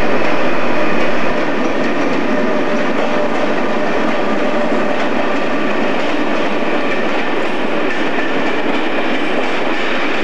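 Train running noise: a steady, dense rumble and rattle of running gear with faint steady whining tones, a little louder for the first second or so.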